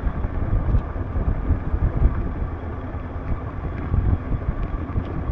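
Motorcycle running, heard as a steady low rumble, with wind buffeting the microphone.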